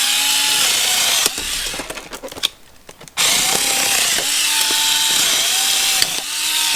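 A small power cutting tool running in short runs as it cuts open plastic product packaging, its motor pitch dipping each time it bites. About a second in it stops for roughly two seconds, with a few clicks, then runs again in bursts.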